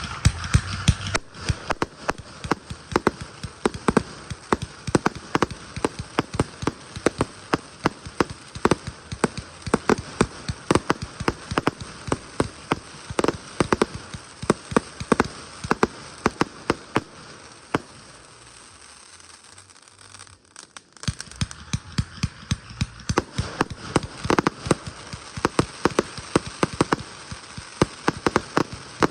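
Fireworks going off: dense, rapid crackling and popping with many sharp cracks a second. It thins out and briefly stops about two-thirds of the way through, then starts up again.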